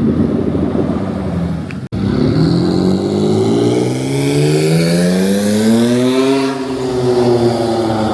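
Car engine accelerating: after a sudden brief break in the sound, its pitch climbs steadily for about four seconds, then levels off.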